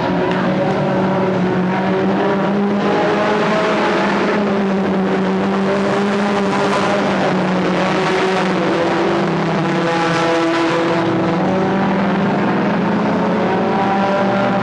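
Several stock car engines running together in a race, a loud steady drone whose pitch rises and falls as the cars rev and ease through the laps.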